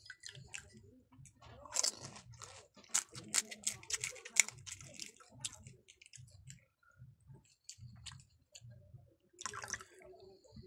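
Close-up eating sounds of pani puri: chewing and crunching of the crisp fried puri shells, with a cluster of sharp cracks about two to four seconds in. Near the end there is a wet squish as a puri is dipped into tamarind water.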